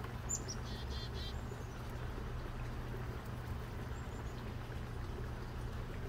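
Small songbirds calling: a quick series of high chirps about a second in, and a single faint high note around four seconds, over a steady low hum.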